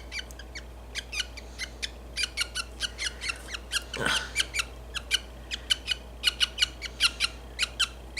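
Budgie chick giving a rapid string of short, shrill squeaking cheeps, several a second and growing denser after the first couple of seconds: the protest calls of a chick being held down and handled while tape is worked off its splayed legs.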